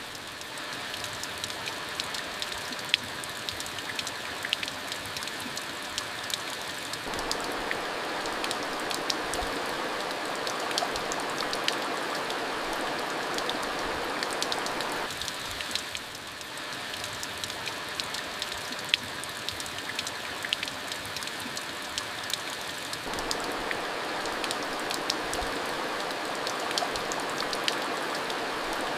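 Steady rain falling, a continuous hiss with many sharp drop ticks striking a surface; the fuller, lower part of the rain sound swells and eases every eight seconds or so.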